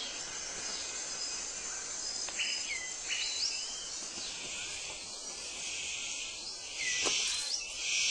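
Tropical rainforest ambience: a steady high insect buzz with a few short sweeping bird calls, then two louder bursts of the buzz near the end.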